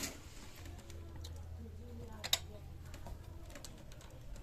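Light clicks and ticks of hand work on a scooter engine, with one sharper click about two seconds in, over faint background music and a low hum.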